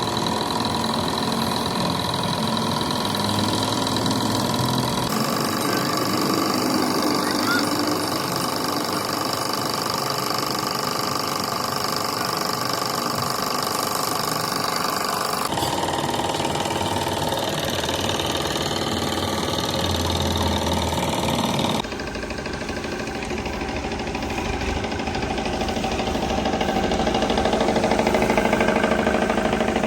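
Machinery running steadily, a loud mechanical noise with several held tones, changing abruptly three times as one running machine gives way to another.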